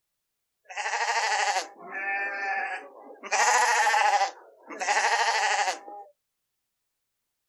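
Bleating livestock: four drawn-out bleats about a second each, the second one softer.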